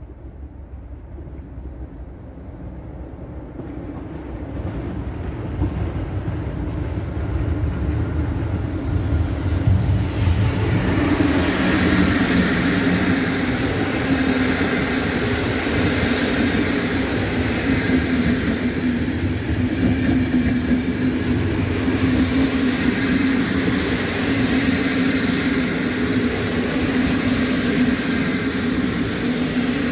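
EP09 electric locomotive and its Intercity passenger train running into the station: the rolling rail noise grows louder over the first ten seconds or so as it approaches, then holds steady as the train rolls by.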